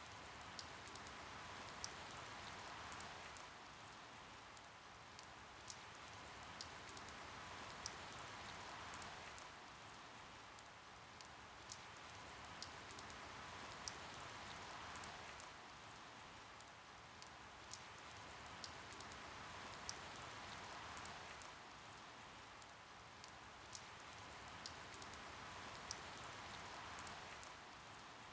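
Steady rain falling, with many scattered sharp drops landing close by; the rain swells and eases about every six seconds.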